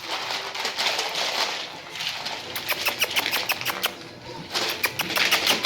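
French bulldog puppies scuffling and playing, a busy patter of sharp clicks and rustling from their paws and bedding, pausing briefly near the middle before picking up again.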